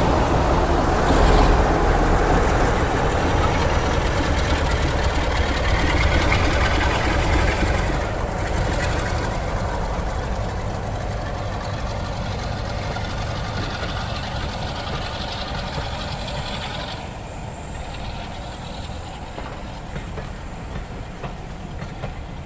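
A train running past on the line and fading steadily as it draws away.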